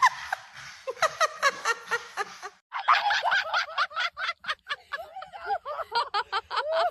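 High-pitched giggling laughter in quick runs of short notes, breaking off briefly about two and a half seconds in.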